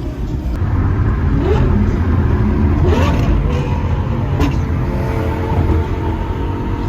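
Lamborghini Gallardo Superleggera's V10 with an aftermarket exhaust accelerating, its revs rising twice. About four and a half seconds in there is a single sharp crack, and then the engine runs on at a steadier pitch.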